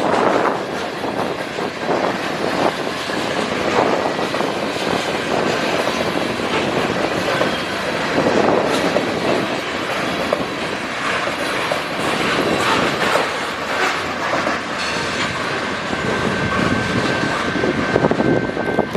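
Freight cars of a Canadian National local freight train rolling past, wheels clacking over the rail joints in a steady rumble. A thin, steady wheel squeal joins in near the end.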